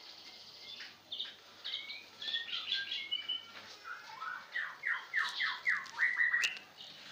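A songbird singing: a run of short, varied chirps, then from about four seconds in a quick series of repeated falling notes, about four a second, that stops shortly before the end.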